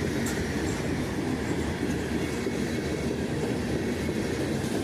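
CN freight train's cars rolling past, a steady noise of wheels running on the rails.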